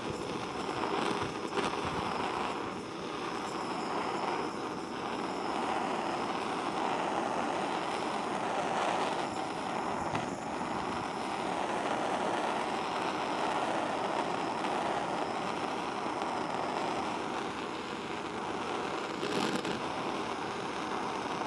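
Blowtorch flame hissing steadily as it is swept over plastic.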